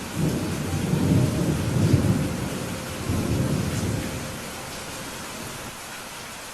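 Thunder rumbling over steady rain; the low rumble swells and rolls for about four seconds, then dies away, leaving the rain hissing.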